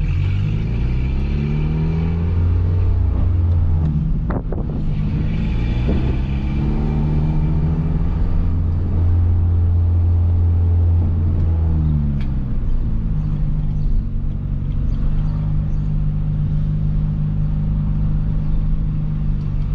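Peugeot 206 1.4 four-cylinder engine running through a straight-pipe exhaust with no muffler, warmed up on ethanol while driving. The revs rise in the first few seconds, break briefly about four seconds in as if for a gear change, climb again and hold high, then drop off about twelve seconds in and settle to a steady, lower cruise.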